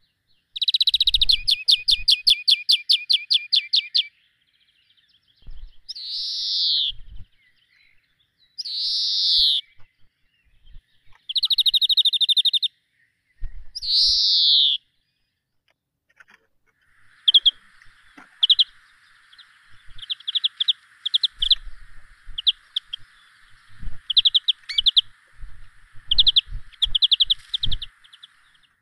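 Birds calling: loud, rapid high-pitched trills and several downward-sweeping calls. About two thirds of the way through, these give way to a quick run of short chirps over a steady hiss.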